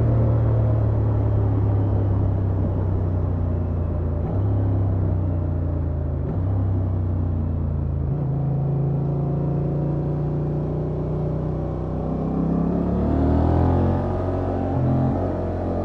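Honda XL750 Transalp's parallel-twin engine running under way through its stock exhaust. The engine note shifts in pitch a few times and rises in the last few seconds.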